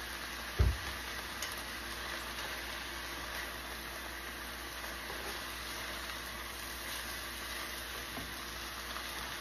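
Ramen noodles, beef and cabbage sizzling steadily in a hot frying pan as they are tossed with chopsticks and a spatula. A single dull low thump about half a second in.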